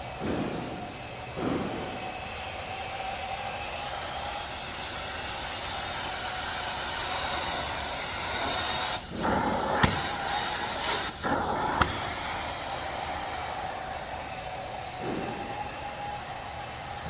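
Truck-mount carpet-cleaning wand spraying hot water and extracting it under strong vacuum: a steady rushing hiss with a faint whine, broken briefly twice, about nine and eleven seconds in.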